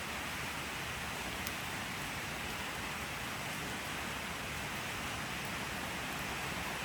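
Steady rain falling, an even hiss of many drops with no change in level.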